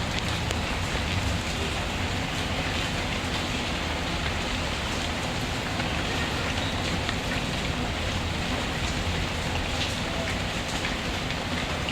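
Steady rain falling on surfaces, mixed with the soft crackle of a wood fire in a fireplace, with small scattered ticks throughout.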